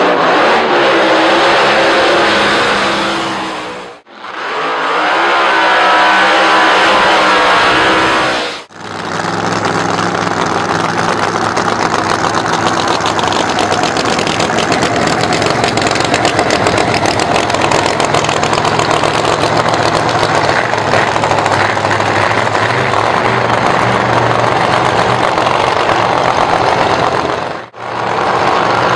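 Drag car engines in a series of clips separated by short dropouts: two brief stretches of an engine revving, its pitch rising and falling, then about twenty seconds of a loud engine running at a steady, rough note.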